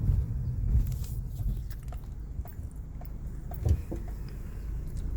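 Low rumble of a car driving, heard from inside the cabin, with scattered light clicks and one louder knock a little past halfway.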